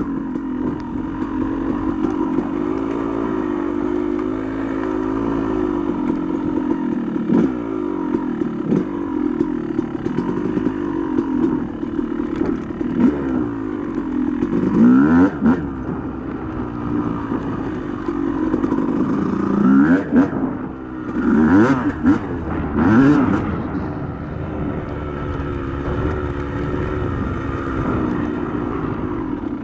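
Yamaha YZ250 two-stroke single-cylinder dirt bike engine under way on a trail, its pitch rising and falling with the throttle. Sharp revs about halfway through and again between about 20 and 23 seconds in, with a few clattering knocks.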